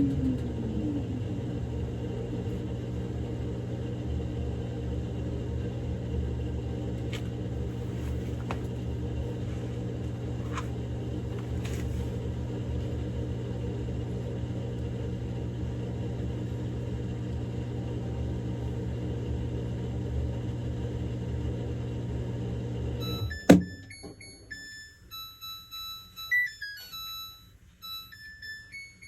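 Samsung Grande washing machine running with a steady hum, which cuts off with a sharp click about 23 seconds in. The machine then plays a short electronic tune of beeps, the signal that the quick-wash cycle has finished.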